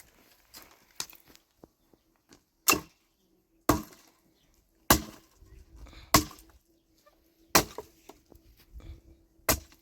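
Firewood being chopped: six sharp, separate blows about one to two seconds apart, with a faint steady hum underneath.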